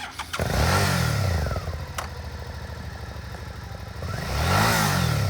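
Suzuki V-Strom 650's fuel-injected, liquid-cooled V-twin starting up about half a second in, then revved twice with steady idling between.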